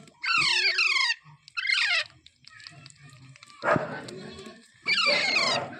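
Green parrot (rose-ringed parakeet) screeching: three loud calls that each slide steeply down in pitch, in the first second, about two seconds in, and near the end, with a harsher, rasping call around four seconds in.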